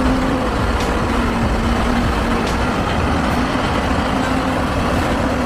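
Heavy truck's engine running hard at high throttle, climbing a steep bend: a steady drone that holds one pitch.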